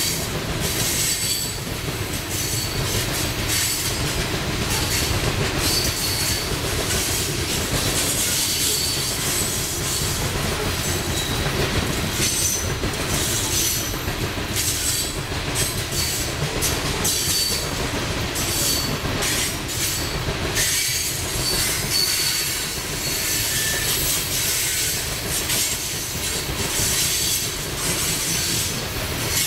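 Coal hopper cars of a freight train rolling past close by: a steady rumble and clatter of wheels on rail, with brief high-pitched wheel squeals coming and going.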